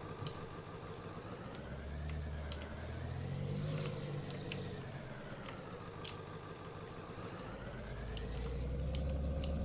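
Pickup truck driving, its engine note rising and falling with the throttle over a low road rumble that swells twice, with scattered light clicks.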